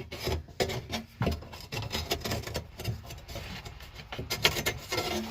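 Sheet-metal patch panel being held in place and scribed: irregular scrapes and light knocks of metal on metal.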